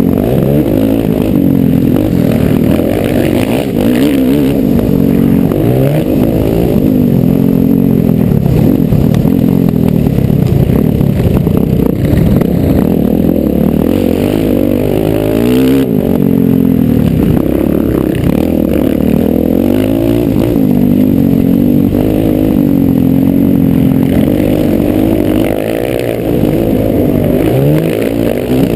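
Motocross bike engine heard close up from an onboard camera, revving hard and falling back again and again as the rider accelerates, shifts and brakes along the track.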